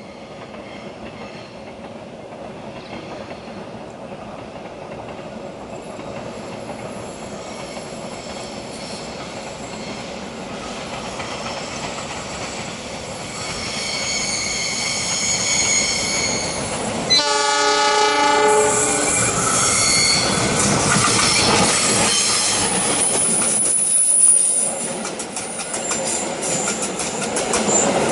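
Diesel locomotive hauling a passenger train, growing steadily louder as it approaches. It sounds its horn in one short blast about two-thirds of the way through, then passes close with loud wheel noise, squealing and clatter over the rails.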